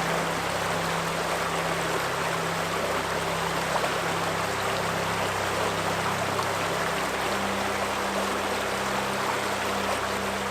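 River water running steadily, with soft sustained low music notes underneath that shift to new pitches every few seconds.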